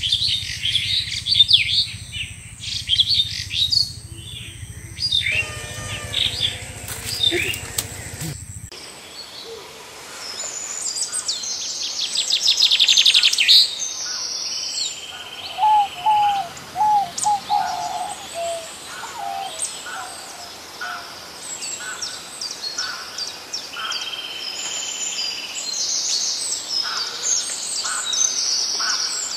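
Several birds chirping and calling over one another, with a fast trill about twelve seconds in and a short run of lower whistled notes a few seconds later.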